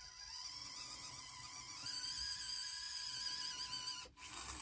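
Electric motor and gear whine of a small 1/24-scale RC Jeep crawler climbing a steep ramp. The steady whine rises in pitch about two seconds in and cuts off suddenly near the end.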